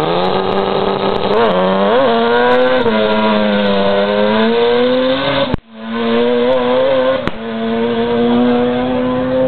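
Mazda RX-7 rotary engine in a Mk2 Escort rally car revving up over the first second, blipped twice, then held at steady high revs with a slight waver. The sound breaks off for an instant about halfway through, then carries on at the same revs.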